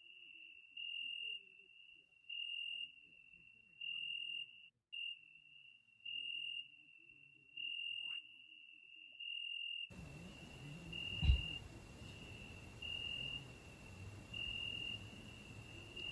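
A cricket chirping: a steady high note in regular pulses, about one every one and a half seconds. A single sharp knock comes about eleven seconds in.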